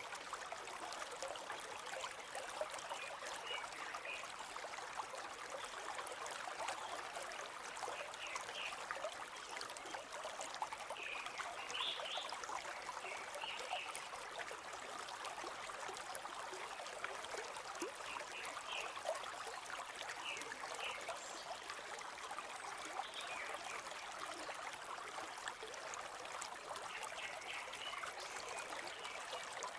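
A shallow forest river flowing and babbling steadily over stones, with short high-pitched notes coming up every few seconds.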